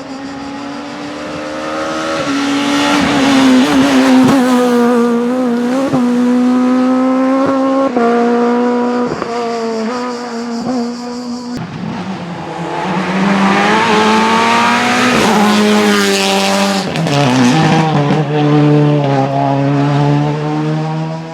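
Rally car engines at high revs, the pitch climbing and dropping again and again through gear changes and corners. About halfway through a second car takes over and revs through another rise and fall.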